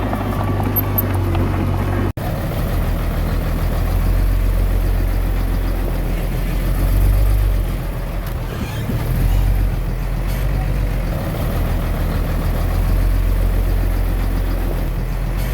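Komatsu D21A mini bulldozer's diesel engine running with a steady low drone, swelling and easing a few times as it works. The sound drops out for an instant about two seconds in.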